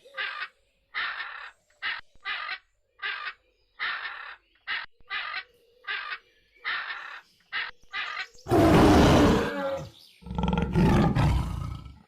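Animal calls: a run of about a dozen short, high calls, roughly one and a half a second, then two loud, rough roars near the end.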